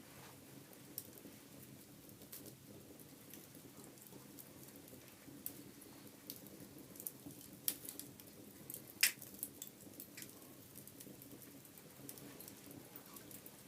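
Wood fire in a fireplace crackling, with scattered sharp pops, the loudest about nine seconds in, over a faint, steady low rumble.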